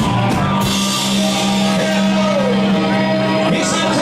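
Live band playing loud rock music, with a steady held low note under it and a voice singing over the instruments.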